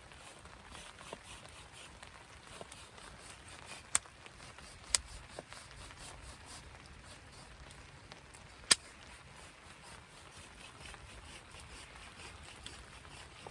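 Wood campfire crackling faintly, with a few sharp pops: three loud ones about four, five and nine seconds in.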